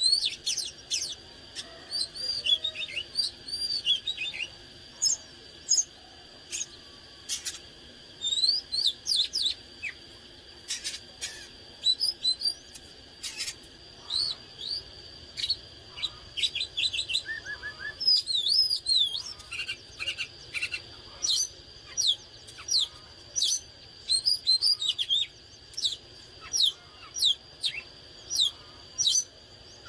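Oriental magpie-robin singing: rapid phrases of short whistled notes and chirps, many sweeping up or down in pitch, in bursts separated by brief pauses.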